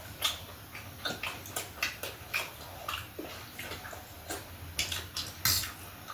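Close-miked eating sounds: wet chewing and lip smacks, coming as irregular sharp clicks about two or three times a second.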